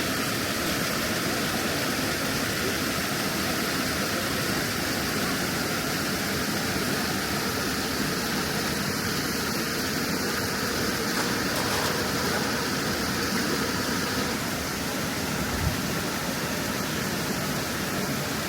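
Waterfall rushing steadily, a dense even roar of falling water. There is a brief low thump near the end.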